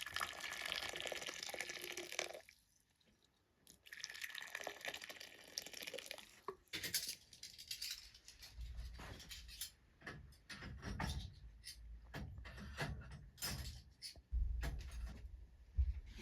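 Liquid poured in two pours a moment apart, then a scatter of short clinks and knocks.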